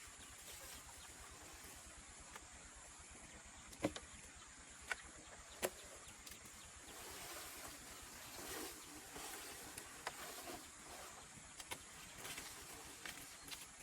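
Three sharp knocks about a second apart, then soft rustling, over a faint steady outdoor background.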